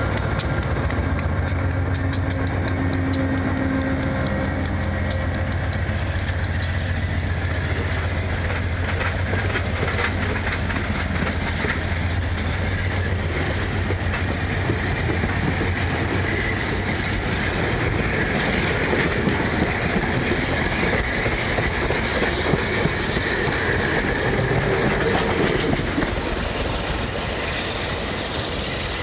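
VIA Rail passenger train pulling away: the diesel locomotive's engine drone at first, fading after about half the time, then the passenger cars rolling past with steady wheel noise and clickety-clack over the rail joints, growing louder in the second half.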